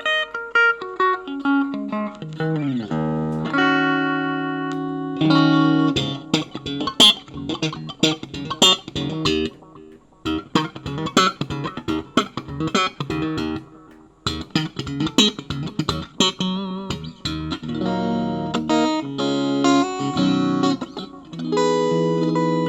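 Bacchus Universe series guitar played solo: single notes with a downward bend near the start, then a long passage of quick picked notes and runs, ending on sustained chords.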